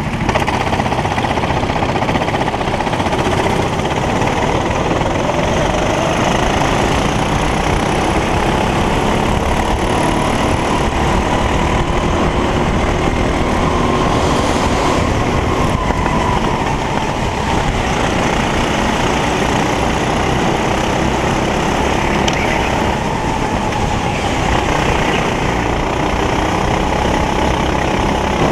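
Racing kart engine running under load, its pitch slowly rising and falling as it speeds up and slows, over a steady rushing noise.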